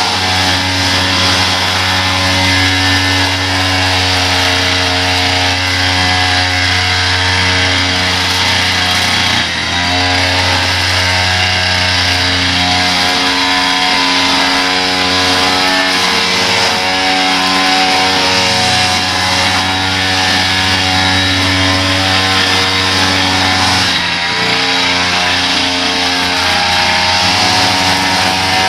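Small petrol engine of lawn-care equipment running steadily at working speed, its pitch shifting a few times as the load changes.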